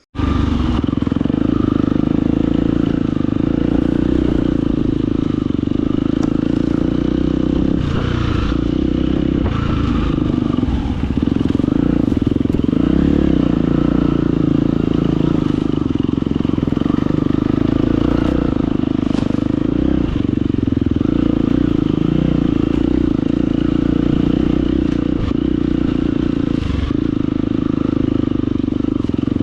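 Husqvarna FE250's single-cylinder four-stroke dirt-bike engine running steadily under load, with a few scattered knocks and clatter.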